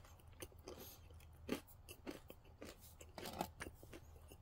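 Faint chewing of a soft pretzel with a crisp crust: short, irregular crunches and mouth clicks, the loudest about a second and a half in.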